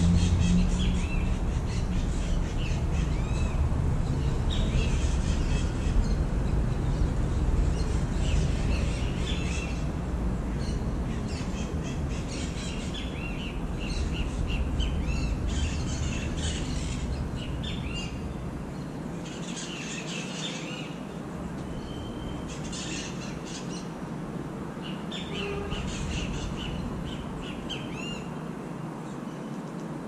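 Chorus of wild birds calling from the trees, chirps mixed with harsh squawks of parrots, coming in clusters throughout. A low background rumble underneath fades away about halfway through.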